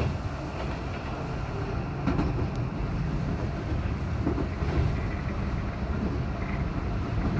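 Keihan 3000-series electric train running, heard from inside the car: a steady low rumble with a few brief wheel-on-rail knocks.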